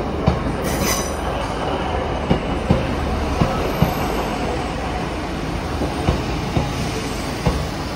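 Northern Class 155 diesel multiple unit rolling slowly along the platform, its wheels clacking over rail joints in pairs over a steady rumble. There is a brief wheel squeal about a second in, and the pairs of clicks spread further apart as the train slows.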